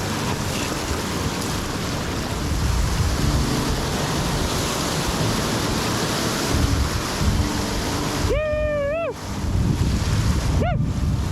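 Wind buffeting the microphone over the steady rush of a fast-flowing river. Near the end, two short pitched calls with overtones, the first held for under a second, the second a brief rising-and-falling note.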